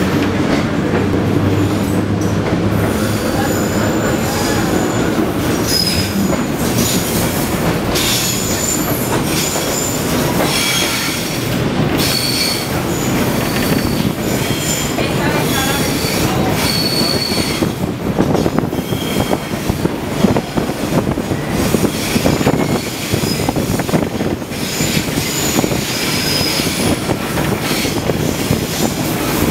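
Old Sarria electric railcar running along the track, its wheels rumbling and knocking over the rails. Short high-pitched wheel squeals come again and again throughout.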